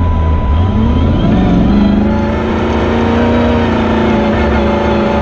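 Rally car's engine heard from inside the cabin, revs climbing about a second in and then held high and steady under load as the car drives up a sand dune. A faint steady high tone runs underneath.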